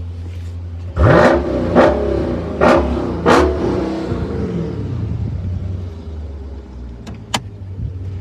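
SRT 6.4-litre HEMI V8 idling, then blipped four times in quick succession about a second in before settling back to a steady idle. Two short sharp clicks near the end.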